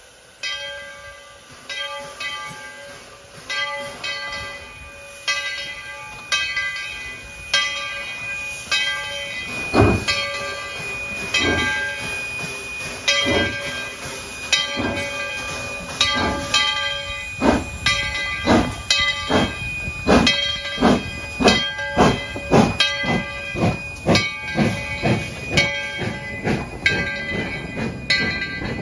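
Steam locomotive pulling away, its exhaust chuffing in sharp beats over a steady hiss of steam. The beats speed up from about one a second to about two a second as the train gathers speed.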